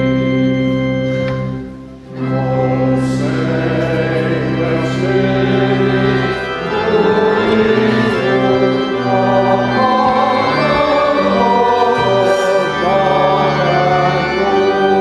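Church organ playing held chords, with a brief break about two seconds in; from about six seconds in, voices sing along with the organ.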